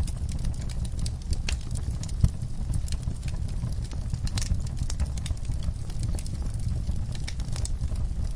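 Wood-burning fireplace crackling, with scattered sharp pops over a steady low rumble.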